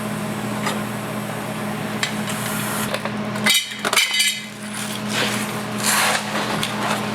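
Hand tools working a sheet-metal patch being fitted for a rust repair: metallic taps, clinks and a short ringing scrape about halfway through, over a steady shop hum.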